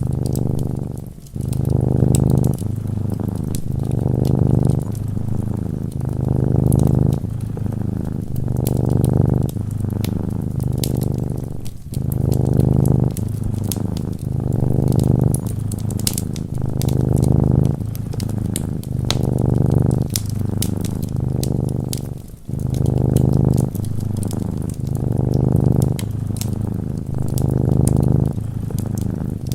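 Domestic cat purring close up, the low rumble swelling and easing with each breath in a steady rhythm, with three brief breaks. Faint crackling of a wood fire runs under it.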